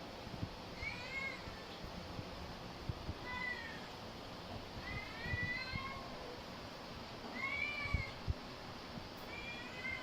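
A cat meowing repeatedly: about five short, high-pitched meows, roughly one every two seconds.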